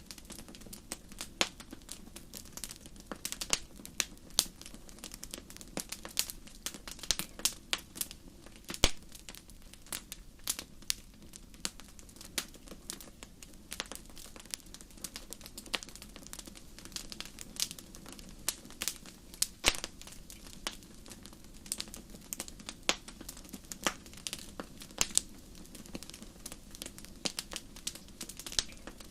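Fire crackling in a fireplace: irregular sharp pops and snaps over a low, steady rush of flame, with the loudest pop about nine seconds in.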